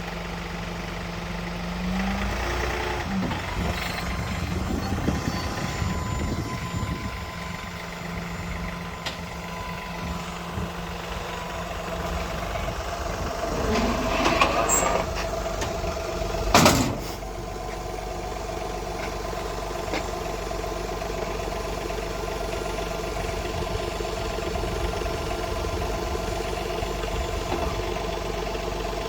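Diesel engine idling steadily, its pitch stepping up a couple of seconds in, with one sharp knock a little past the middle.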